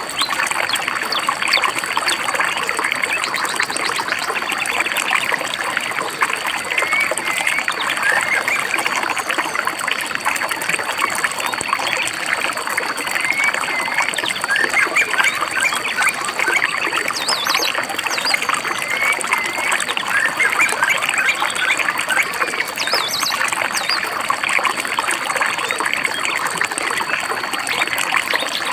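A shallow stream babbling and trickling over stones, steady throughout, with small birds chirping and twittering over it and a couple of brief high trills.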